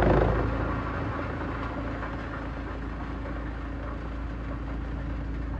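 Heavy-duty industrial wood shredder running. A louder, noisy grinding stretch dies away about half a second in, leaving a steady low machine hum.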